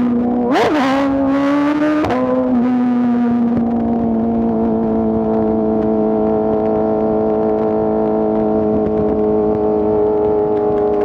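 2024 BMW S1000RR's inline-four engine running under way. The engine note dips and jumps sharply about half a second in and shifts again near two seconds, then holds a steady pitch at a constant cruise.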